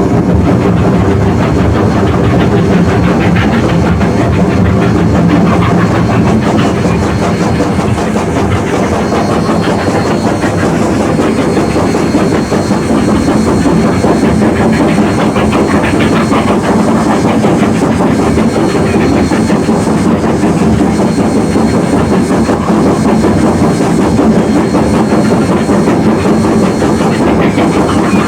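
Narrow-gauge train running along the track, a loud, steady noise of the moving train without a break.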